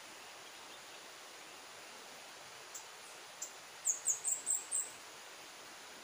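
A small bird's very high, thin call: two single short notes, then a quick run of about six short notes, each sliding down in pitch, over a steady background hiss.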